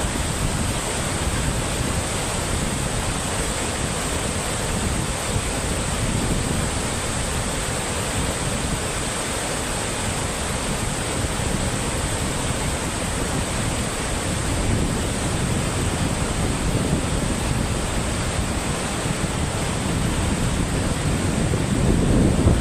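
Steady rushing of water with wind buffeting the microphone, the low rumble growing louder near the end.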